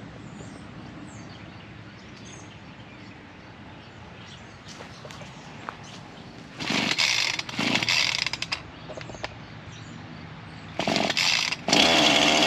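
Ryobi 37cc two-stroke gas chainsaw being pull-started. There are short bursts about six and a half seconds in and again near eleven seconds, and then the engine catches near the end and keeps running.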